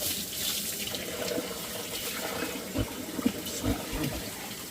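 Water running and splashing, as from a tap into a basin, with a few soft knocks in the second half.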